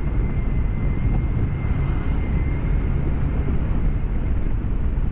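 BMW K1200S motorcycle riding along, with the steady rush of wind and road noise heard through a microphone inside the rider's helmet, its inline-four engine running underneath. A faint steady high whine sits over the noise for the first couple of seconds.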